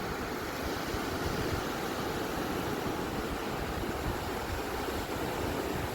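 Ocean surf washing on a beach: a steady, even rush of waves with no single break standing out.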